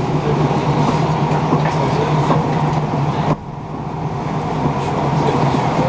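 Running noise of a passenger train heard from inside the carriage: a steady rumble and hum with occasional faint wheel clicks. About halfway through the noise suddenly drops, with the hiss falling away, then builds back up.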